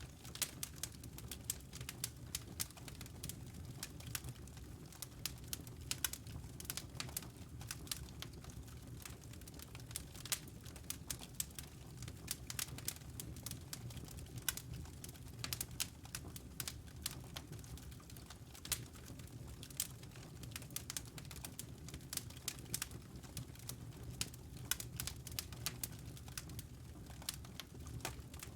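Wood logs burning in a fireplace, with dense, irregular crackles and pops over a steady low rumble of the flames.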